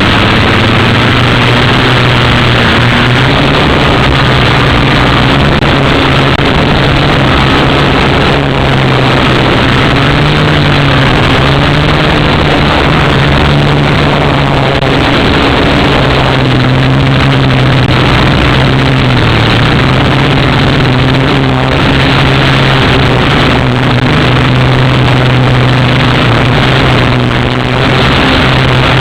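Syma X8W quadcopter's motors and propellers running with a steady low buzz whose pitch wavers slightly, under a loud rushing noise.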